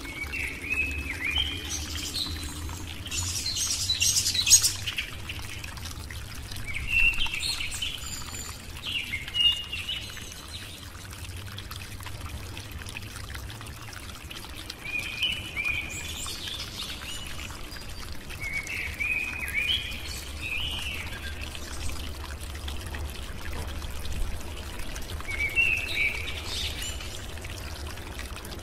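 Bird chirps in short bouts every few seconds, over a low steady hum.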